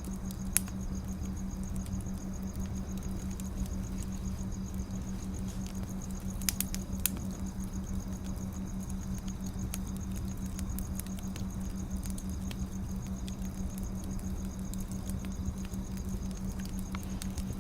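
Wood fire crackling, with sharp pops now and then, the loudest about half a second in and around six to seven seconds in, over a steady low hum.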